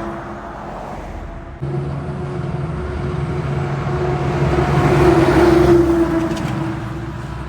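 Engine of a heavy road vehicle passing on a highway, running at a steady pitch; it grows to its loudest about five seconds in, then fades. There is a sudden jump in level about a second and a half in.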